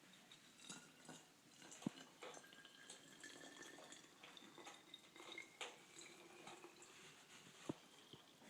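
Faint trickle of soapy water poured into the narrow hole of a home-made volcano, its pitch slowly rising as it fills, with a few small clicks of handling.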